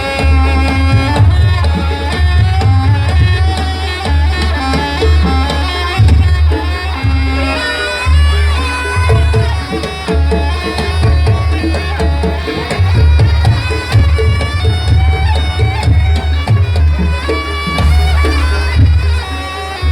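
Jaranan Buto music: a slompret, a nasal double-reed shawm, plays a wavering melody over heavy, repeated low drum and gong beats.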